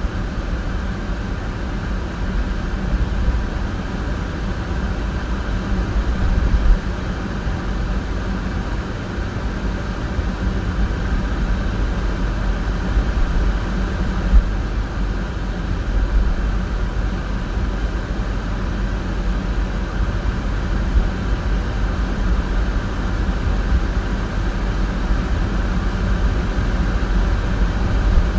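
Steady road and engine noise inside a moving car, a constant low rumble with a few small bumps.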